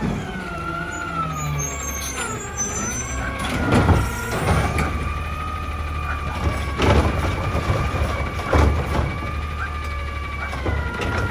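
Garbage truck running with a steady whine over the low engine rumble, the whine dipping in pitch about two and a half seconds in, and several sharp knocks.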